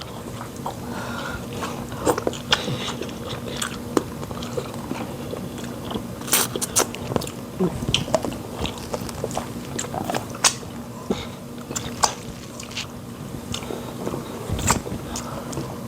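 Close-up eating sounds: chewing and mouth smacks from people eating fufu with fish pepper soup, in irregular short clicks and smacks.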